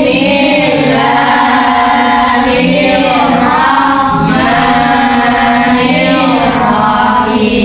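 A group of voices chanting an Islamic prayer together in unison, in a steady sing-song melody.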